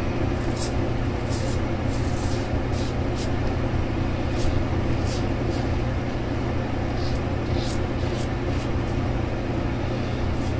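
Leymiga brass safety razor strokes scraping through lathered stubble: about a dozen short, crisp scrapes at an irregular pace, over a steady low hum.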